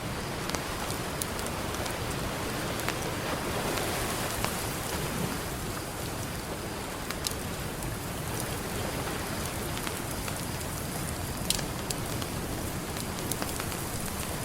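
Campfire crackling with a few sharp pops, over a steady wash of ocean surf that swells briefly a few seconds in.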